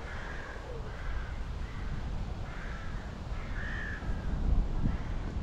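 Crows cawing, several separate caws spread through, over a steady low rumble.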